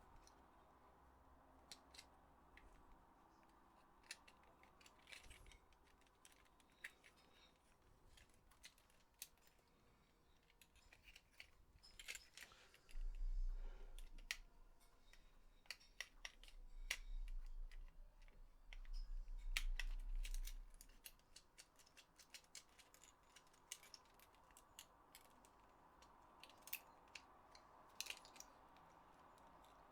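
Scattered small clicks and taps from the plastic parts of a PS4 controller being handled and fitted, with a low rumble for several seconds in the middle.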